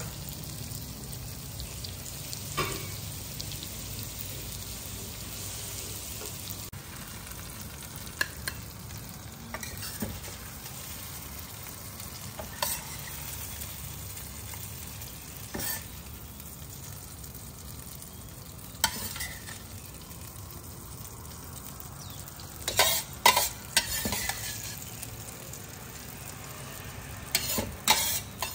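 Curry prawns sizzling in a wok while a metal spoon stirs and scrapes them out onto a plate, with scattered sharp clinks of the spoon against the wok and plate. A quick run of clinks comes about 23 seconds in and another near the end.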